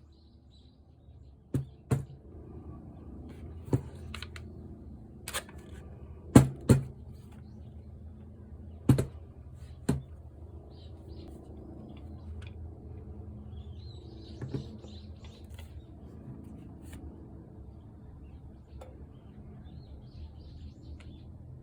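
Handling noise from taking apart a cordless angle grinder: scattered sharp clicks and knocks of hard parts being set down and worked on a bench, the loudest a close pair about a third of the way through, over a low steady hum.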